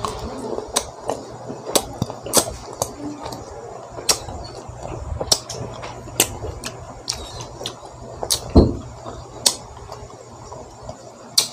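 Close-miked chewing of green mango, with irregular sharp wet clicks and crunches from the mouth. A heavier low thump comes a little past two-thirds of the way through.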